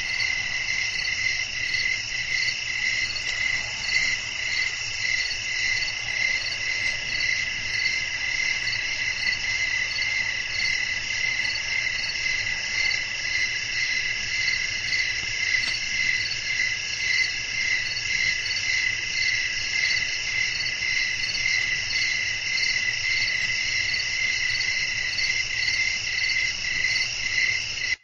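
Dense night chorus of crickets chirping steadily, several insects overlapping in a continuous fast pulsing trill at a few different pitches.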